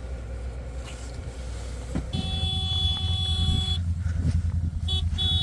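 Farm vehicle engine running, revving up about two seconds in, while its horn sounds: one long blast of about a second and a half, then a short toot and another long blast near the end.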